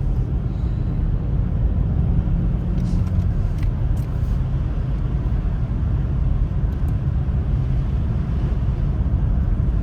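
Steady low rumble of a car driving, heard from inside the cabin: engine and road noise, with a few faint ticks.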